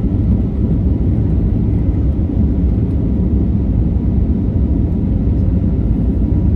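Steady low rumble of an Airbus A321neo's engines and airflow heard inside the passenger cabin during the takeoff climb.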